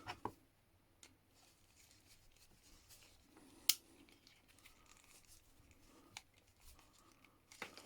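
Quiet handling of wires and small tools, with a few faint clicks and one sharp snap or snip about three and a half seconds in, while a brown wire is fitted to an emergency stop button.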